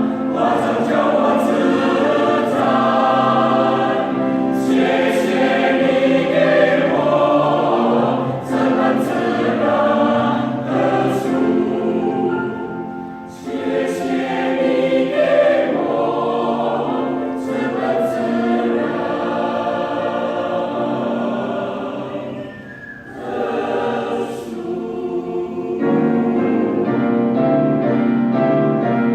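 Mixed choir singing a sacred choral piece in several voice parts, phrase after phrase, with short breaths between phrases about halfway through and again near the end.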